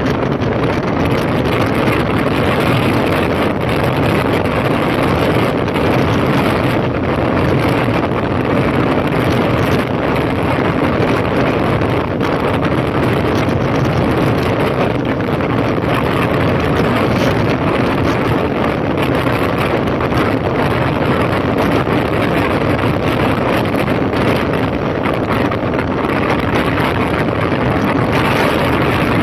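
2005 Honda CB1300's inline-four engine running steadily under way, mixed with heavy wind rush over the microphone.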